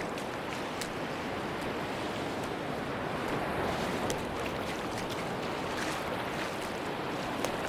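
Sea surf washing steadily on a beach, with a few faint sharp ticks scattered through the wash.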